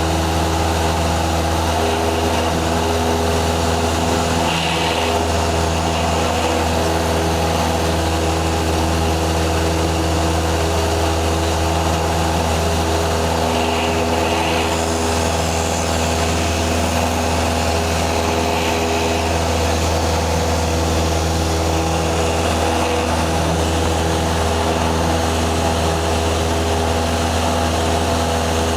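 Small propeller airplane's piston engine running steadily, a constant loud drone heard on board.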